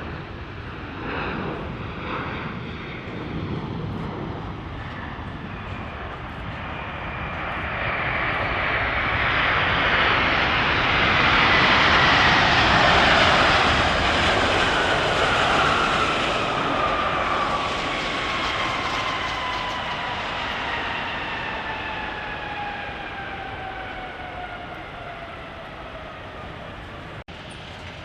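Jet engines of an arriving British Airways airliner passing close by on approach. The engine noise builds to a peak about halfway through, then fades, while the engine whine drops steadily in pitch as the plane goes past.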